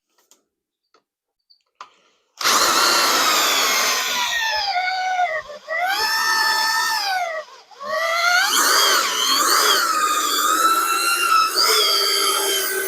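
Corded drill driving a hole saw through a rubber motor cradle bushing. About two seconds in it starts with a loud whine that sags in pitch as the saw bites, cuts out briefly twice, then runs on under load.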